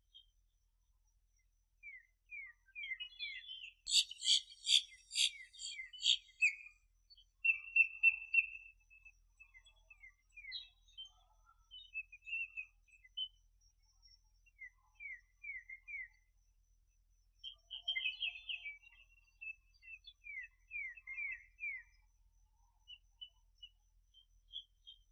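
Small birds chirping and calling: runs of short downward-sliding chirps, with a loud, rapid flurry of notes about four seconds in and another flurry around eighteen seconds in.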